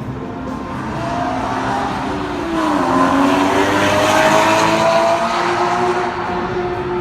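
Supercar engine accelerating: its note dips briefly about two and a half seconds in, then climbs steadily and grows loudest in the middle before easing off.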